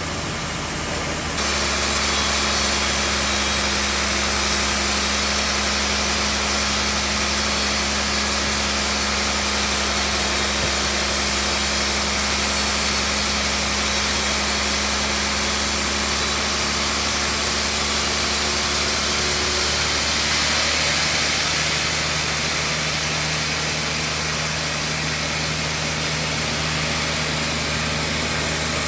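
Sawmill bandsaw running: a steady machine hum under a loud, even hiss, with an abrupt change about a second and a half in and a shift in tone about two-thirds of the way through.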